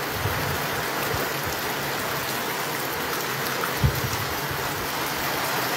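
Heavy rain pouring steadily, a dense even hiss, with one low thump a little before four seconds in.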